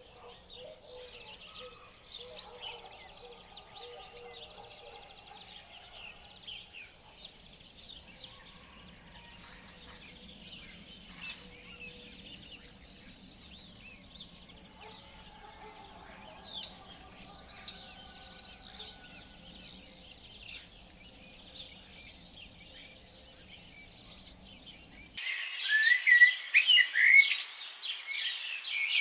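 Chorus of many rainforest birds chirping and whistling over one another. About 25 seconds in it cuts suddenly to a louder, busier chorus of birds.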